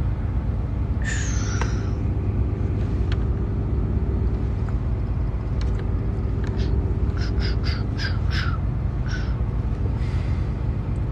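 Steady low rumble of a truck idling, heard from inside the cab. About a second in there is a short falling squeal, and in the middle a quick run of about six short, sharp, harsh sounds.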